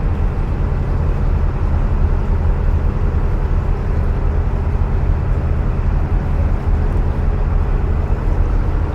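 Narrowboat's diesel engine running steadily at cruising speed inside a canal tunnel, a constant low chugging drone with no change in pace.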